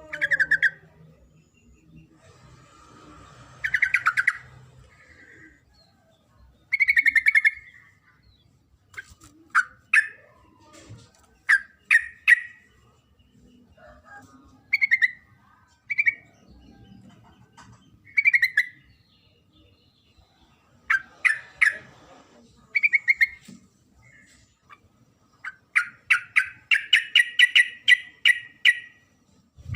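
Female yellow-vented bulbul (trucuk) calling: short bursts of chirping notes every second or two, ending in a longer rapid run of repeated chirps, the call used to lure males into song.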